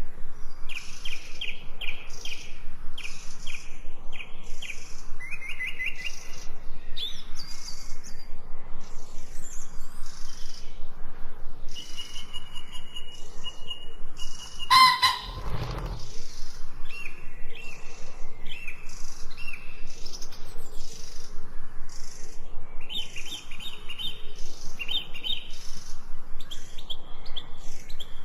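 Birds chirping in short rapid trills over a steady, rhythmic high-pitched insect chirping, pulsing a little under twice a second. About halfway through comes one brief, louder harsh sound with a low rumble.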